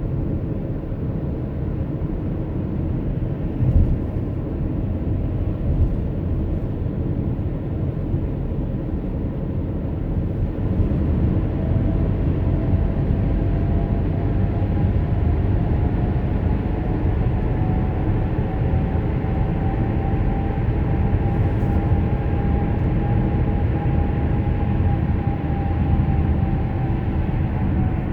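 Road and engine noise heard inside a moving car: a steady low rumble that grows louder about eleven seconds in, with a faint hum that glides slowly up and back down in the second half.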